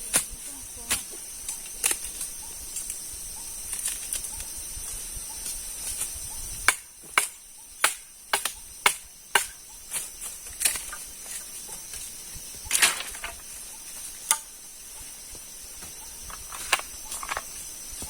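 Steady high-pitched insect chorus, with a string of sharp knocks clustered from about seven to nine and a half seconds in and a few more scattered before and after.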